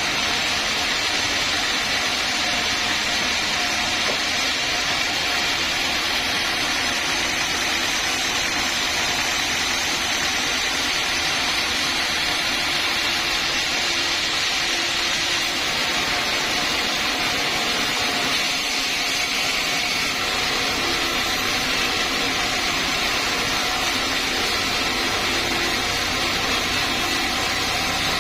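Sawmill saw machinery running steadily, a continuous mechanical drone and hiss with no breaks or sudden knocks.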